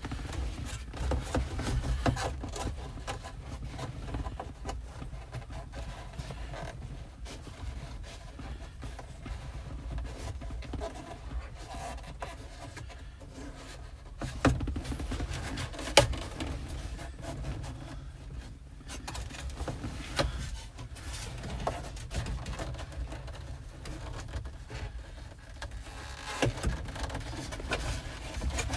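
Handling noise: scraping and rubbing of duct hoses and wiring being worked under a truck's dashboard, with scattered small knocks, two sharper ones about halfway through.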